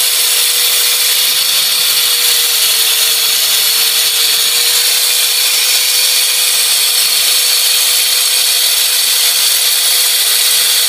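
Power saw cutting through travertine stone: a steady, unbroken whine over a loud hiss.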